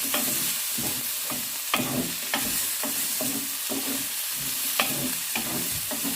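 Onion, bell peppers, garlic and ginger sizzling in hot oil as they are stir-fried, with a steady hiss and irregular clicks and scrapes of the spatula against the pan.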